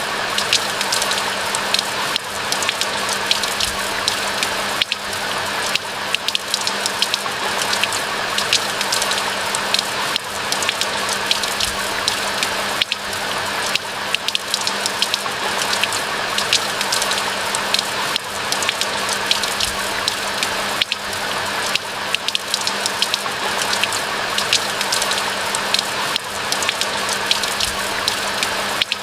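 Steady rain falling in a pine forest: a dense, even hiss with many separate drop hits heard as sharp ticks, no let-up or change throughout.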